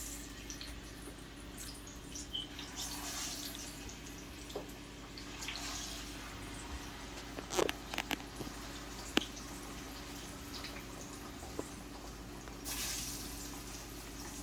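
Faint sizzle of plantain slices frying in hot oil, with a few light clicks and knocks from kitchen handling about halfway through.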